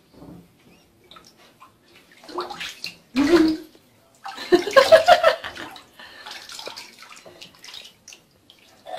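Water splashing and gurgling in a bathtub in several loud bursts, the biggest about two to five seconds in, then smaller sloshes.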